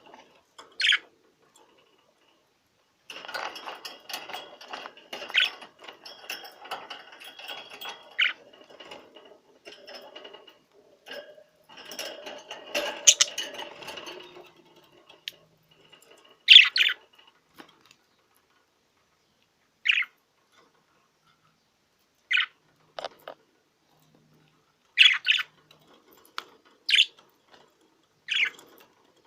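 Male budgerigar courtship warble: about eleven seconds of busy, chattering song, then single sharp chirps every two to three seconds.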